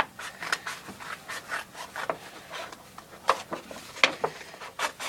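Scissors cutting a curve through a card folder: a run of short, irregular snips and scrapes of the blades through the card, with the card rustling as it is handled.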